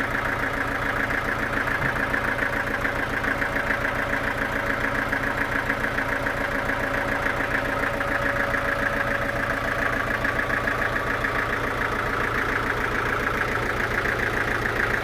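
Engine running steadily at an even idle, with a rapid, regular pulse.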